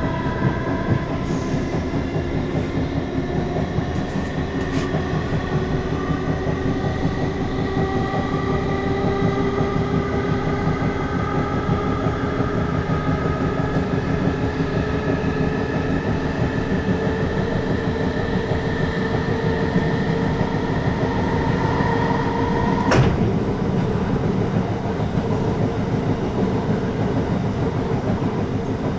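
Class 455 electric multiple unit running, heard from inside the passenger saloon. Several whining tones from the traction motors slowly rise in pitch over the rumble of the wheels on the track. A sharp clunk comes about three-quarters of the way through, after which the higher whine drops away.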